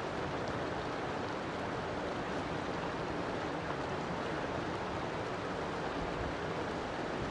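River water flowing, a steady even rushing with no breaks.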